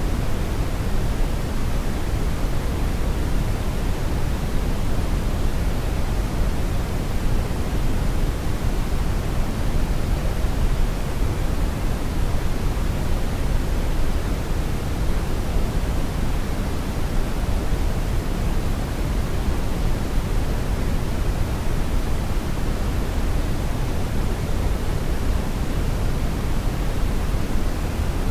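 Steady brown noise: an even, deep rushing hiss weighted toward the low end, with no changes.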